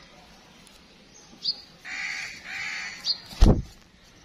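Two harsh bird calls, each about half a second long, about two seconds in, with a few short high chirps from small birds around them. A single loud thump about three and a half seconds in.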